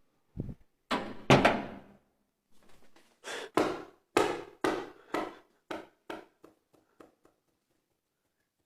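A run of loud bangs and thuds: one low thud, two heavy bangs, then about ten more knocks at uneven spacing that grow fainter and stop about seven seconds in.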